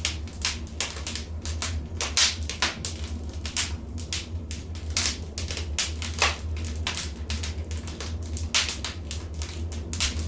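Wood fire in a fireplace crackling: irregular sharp pops and snaps, several each second with a few louder ones, over a steady low rumble.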